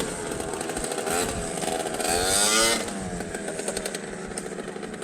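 Motorcycle engines running as bikes ride past at low speed, their pitch rising and falling with the throttle. Loudest about two to three seconds in.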